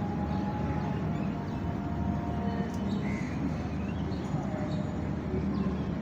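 Steady rumble of city traffic with scattered short bird chirps over it.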